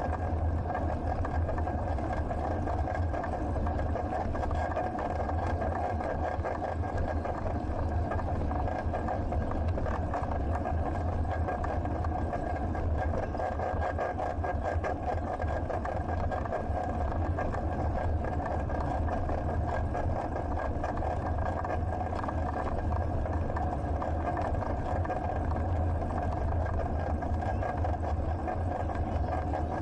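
Steady rumble of a moving bicycle picked up by an action camera: wind buffeting the camera and tyre and road noise, with an even hum running through it.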